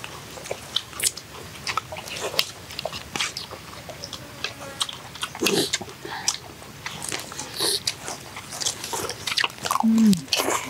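A man chewing and biting a spoonful of cow stomach and banana-stem salad close to the microphone: many short, irregular mouth clicks and smacks, with a brief hummed "mm" about ten seconds in.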